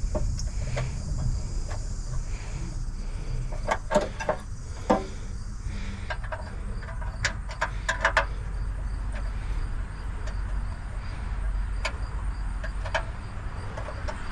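Scattered sharp clicks and clinks, bunched about four seconds in and again around eight seconds, over a steady low rumble.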